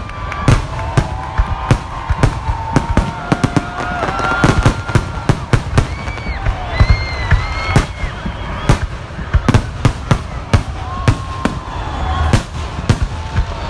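Fireworks display: a rapid, irregular barrage of sharp bangs and crackling reports, several a second, with held pitched tones sounding underneath.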